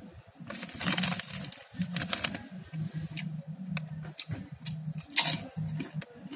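Close-miked eating sounds: someone chewing food in a steady rhythm, with many short, sharp crunches and clicks. The densest crunching comes about a second in and again about five seconds in.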